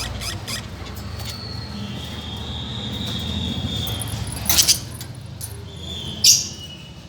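Caged lovebirds and budgerigars calling: a drawn-out high whistle, then two loud, harsh screeches, about four and a half and six seconds in.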